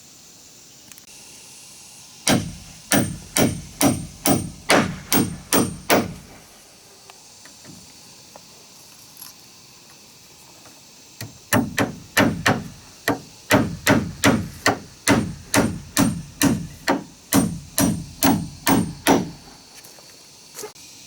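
Hammering: two runs of steady blows, about two to three a second. The first run has about ten strokes, and the second starts about four seconds after the first ends and runs to about twenty. Each blow has a dull thud with a short metallic ring.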